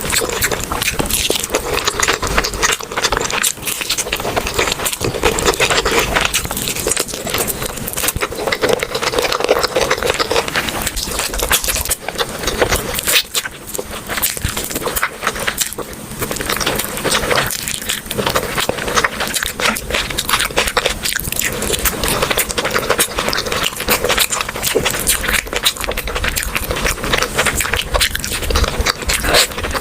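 Close-up eating sounds: continuous crackly chewing and crunching with scraping, dense and loud throughout.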